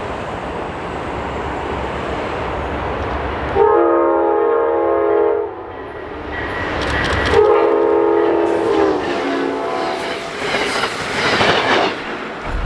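Amtrak Cascades passenger train sounding two long horn blasts as it passes, over the steady rumble of the train on the rails, with wheel noise rising near the end.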